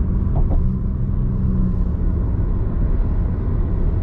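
Car driving at road speed, heard from inside the cabin: a steady low rumble of tyres and engine, with a low drone that fades out near the middle.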